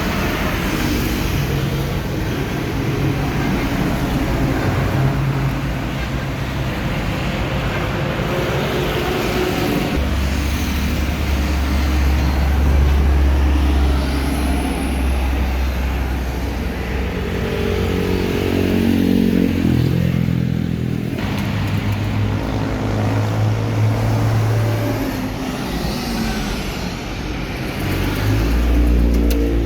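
Heavy trucks passing on a road, engines running; a deep rumble swells about a third of the way in as one goes by, and another engine's note comes through a little past the middle.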